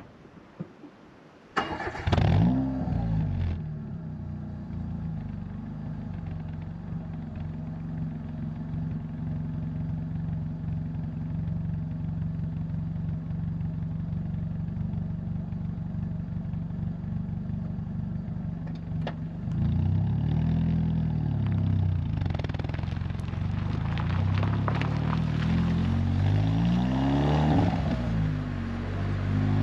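Renault Twingo RS Gordini's 1.6-litre four-cylinder engine breathing through an Inoxcar 80 mm stainless steel aftermarket exhaust. It starts a little under two seconds in with a brief rev flare and settles to a steady idle. From about 19 seconds it pulls away, revving up and down through the gears.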